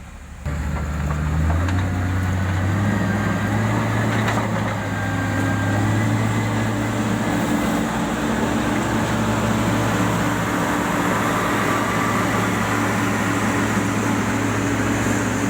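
Heavy-equipment diesel engine that comes in abruptly about half a second in, rises in pitch as the throttle opens over the next couple of seconds, then runs steadily.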